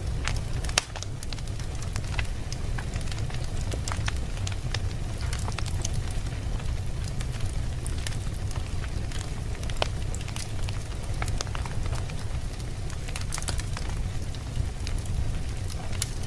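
Wood fire burning in a fireplace: irregular crackles and pops over a steady low rumble of the flames, with one sharper pop about a second in.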